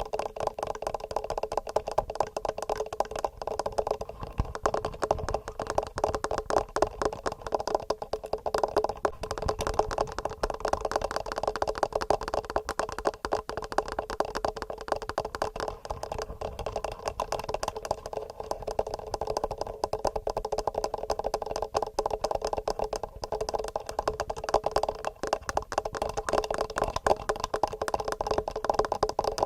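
Fingernails tapping rapidly on a TASCAM recorder's microphones: a dense, regular stream of small clicks.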